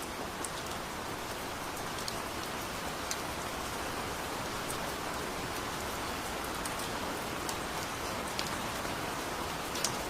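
Steady rain falling, an even hiss with scattered sharp ticks of individual drops striking nearby.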